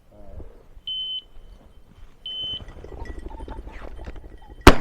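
A pointing dog's beeper collar sounds short, high beeps about every second and a half, the signal that the dog is on point. Near the end, a single loud shotgun shot rings out.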